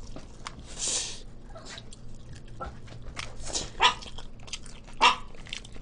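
Close-up eating of crispy fried chicken: biting and chewing with wet mouth sounds and clicks, a short hissing crunch or breath about a second in, and a couple of brief pitched squeaks from the mouth around the middle and near the end.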